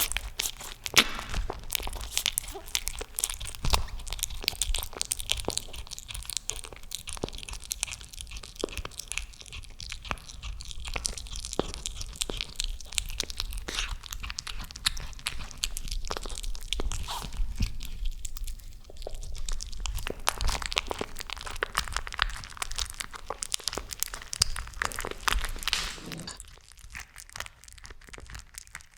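Cat chewing crunchy food close to the microphone: rapid, continuous crunching and biting that thins out near the end.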